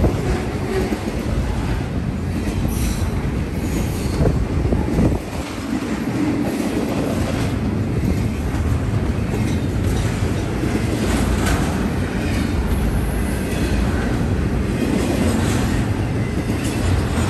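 BNSF double-stack intermodal freight train's container well cars rolling past close by: a loud, steady rumble of steel wheels on rail with repeated clatter and brief high-pitched wheel squeals.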